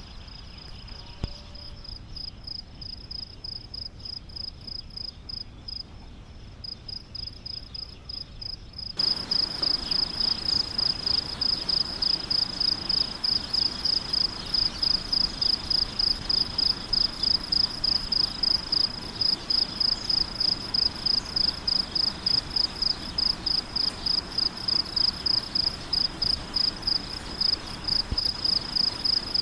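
Cricket chirping in an even, unbroken rhythm of high, clear chirps, about two and a half a second. About nine seconds in the chirping suddenly becomes much louder and a steady hiss comes up behind it.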